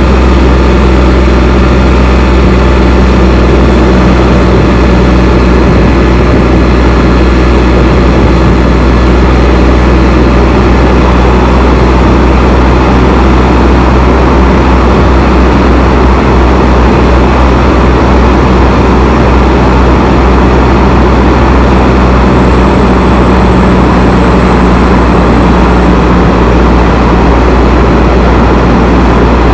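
Loud, steady roar of a Can-Am Spyder three-wheeled motorcycle and the road traffic around it, echoing inside a road tunnel.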